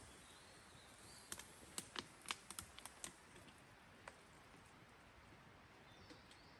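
Campfire wood crackling: a quick run of sharp pops and snaps, then one more a second later, over a faint steady hiss.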